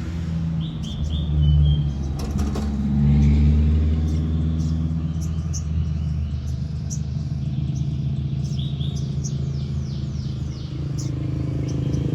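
A small songbird calling in quick series of short, falling chirps, several runs a few seconds apart, over a loud, steady low rumble of a nearby engine or traffic.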